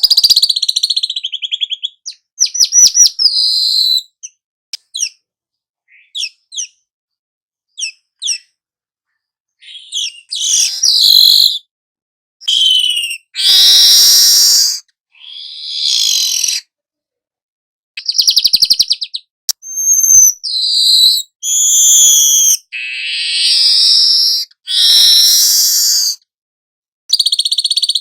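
Young manyar (weaver bird) singing a long run of varied song phrases. It gives loud bursts of chirps, buzzy rapid trills and short whistles, each under two seconds, broken by brief pauses.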